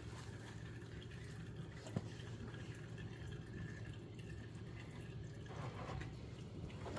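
Used engine oil draining and dripping from the open sump of a GT86/BRZ FA20 engine into a bucket, a faint steady trickle with one short click about two seconds in.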